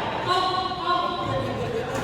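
A voice holding a drawn-out note for over a second, sung or called out, in a large echoing hall.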